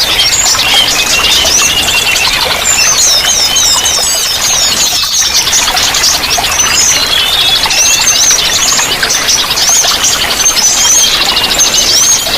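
Several small songbirds chirping and trilling rapidly and without pause, high-pitched, over a steady wash of running water.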